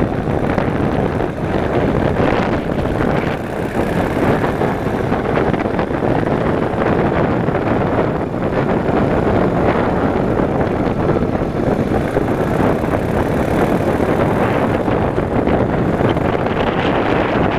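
Steady rush of wind over the microphone on a moving motorcycle, mixed with the motorcycle's engine and road noise.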